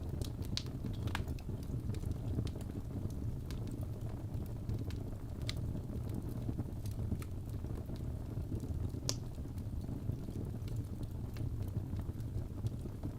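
Wood fire burning in a fireplace, crackling: a steady low rumble of flames with scattered sharp pops and snaps, the loudest about nine seconds in.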